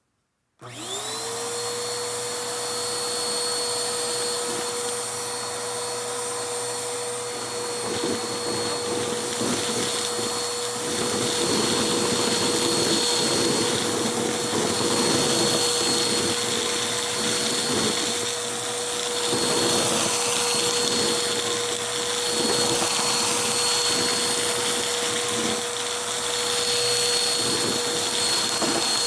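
Vacuum cleaner switched on, its motor whine rising and settling into a steady high tone, then running continuously. From about eight seconds in, irregular crackling and rattling as pieces of Styrofoam are sucked up.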